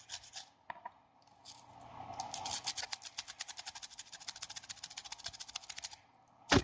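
Rapid scratching and scrubbing strokes from cleaning the dirty charging port of an iPhone 4S. Near the end there is a sudden loud knock as the camera slides.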